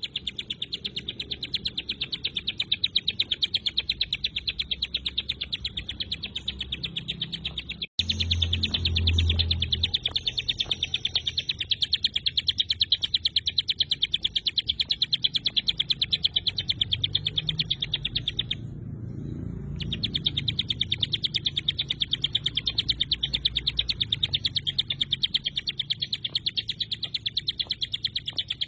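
Ciblek gunung, a prinia, singing its rapid-fire 'tembakan rapat' song: a long, fast run of sharp, high repeated notes, breaking off for about a second roughly two-thirds through, over a low background hum.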